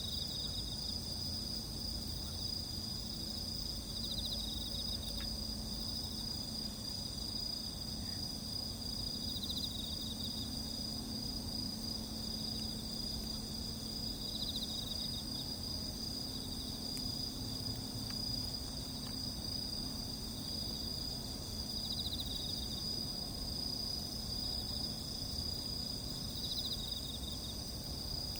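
Night insect chorus: crickets and other insects keep up a steady high-pitched drone, with one pulsed trill returning about every five seconds, and a few faint snaps from a campfire.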